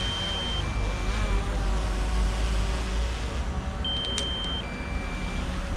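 Electronic two-tone beep, a higher note followed by a lower one, sounding twice about four seconds apart over a steady low engine rumble. A single sharp click comes during the second beep.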